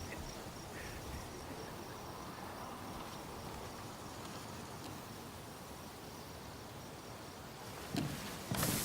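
Quiet outdoor ambience with an insect's high, evenly pulsing chirp, like a cricket. Near the end there is a soft thump, and the background suddenly becomes a louder hiss.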